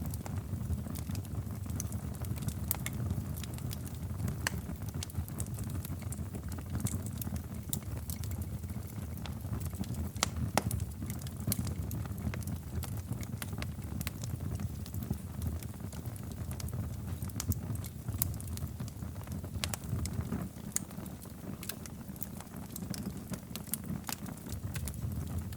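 Wood fire crackling in a fireplace: scattered sharp pops and snaps, several a second at irregular intervals, over a steady low rumble.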